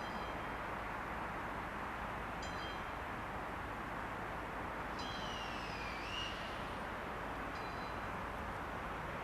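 A train at a railway station: a steady rolling rumble with a few short high squeals and one longer squeal about five seconds in that slides down in pitch and back up.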